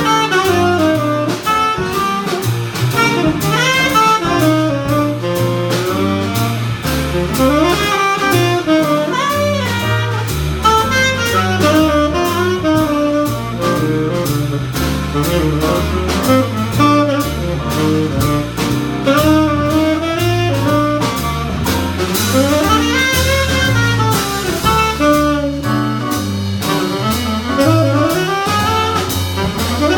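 Live jazz quintet playing an instrumental passage: a tenor saxophone takes a solo over piano, double bass and drum kit with cymbals.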